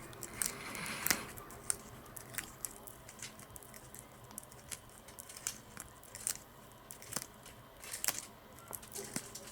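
Tortoise biting and tearing plantain leaves, a run of short crisp crunches and snips at an uneven pace.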